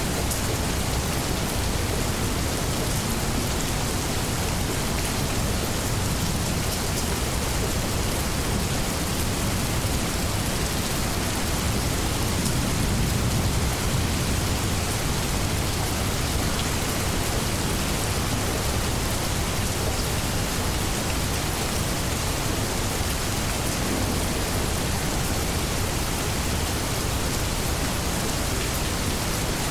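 Steady heavy rain falling on leaves, a dense even hiss with scattered drops pattering.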